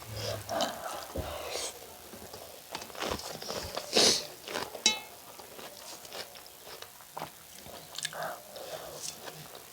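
Close-miked eating sounds: chewing and biting on a mouthful of chicken curry and rice, with wet mouth clicks and one sharper crunch about four seconds in.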